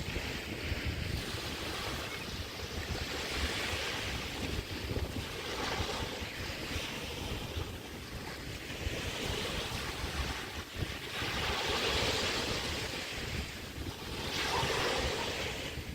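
Small bay waves breaking and washing on a beach, swelling every two to three seconds. Wind buffets the microphone with a low rumble underneath.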